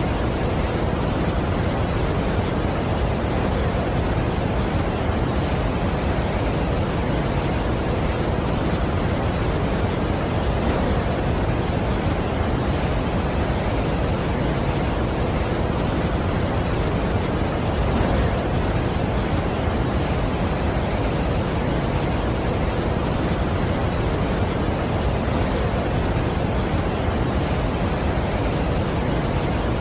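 Large waterfall's steady rushing noise, even and unbroken, heaviest in the low range.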